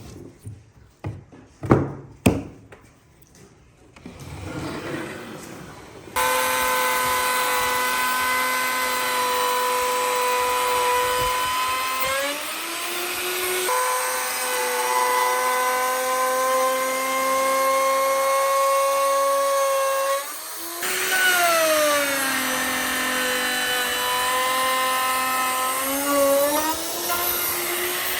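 A few sharp knocks, then an electric power tool starts up about six seconds in and runs loudly at a steady pitch. Its pitch dips twice as it bears into the work, with a brief break in between.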